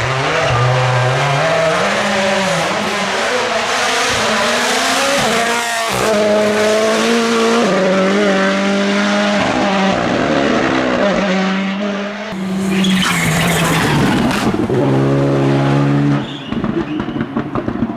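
Rally car engine at high revs, its pitch stepping up and down through repeated gear changes, with tyre squeal. The sound breaks into a choppy crackle near the end.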